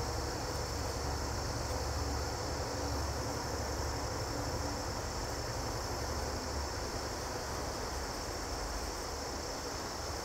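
Crickets chirping in a steady, unbroken high trill, over a low steady rumble.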